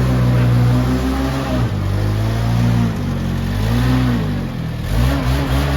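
Engine running loudly, its revs rising and falling again several times.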